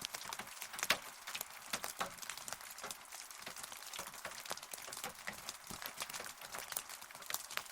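Steady rain, with many separate drops ticking sharply against a hard surface close by over an even hiss.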